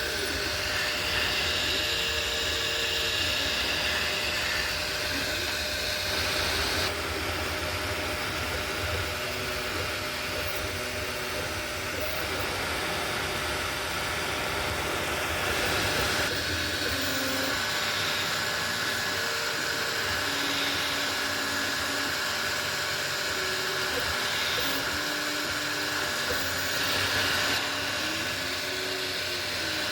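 Anycubic Kobra 3 3D printer at work: its stepper motors whine in short tones that jump from pitch to pitch as the print head moves, over the steady hiss of its cooling fans.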